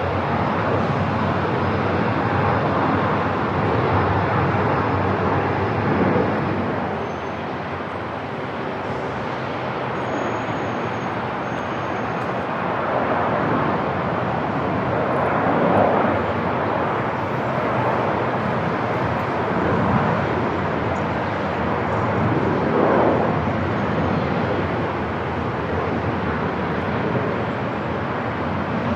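Steady airport ambience: a constant noisy rumble, with a few brief swells along the way.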